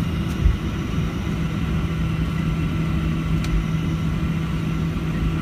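Boeing 737-700 heard from inside the cabin: steady rumble of its CFM56 jet engines and the airframe rolling on the ground, with a constant low hum, and a short low bump about half a second in.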